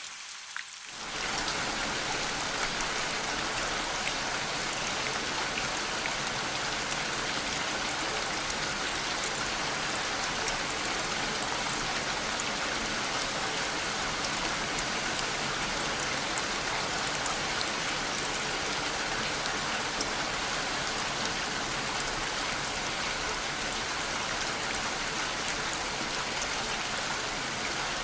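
Steady rain falling, a dense even hiss with many single drops ticking through it. About a second in it fills out and grows a little louder, then holds even.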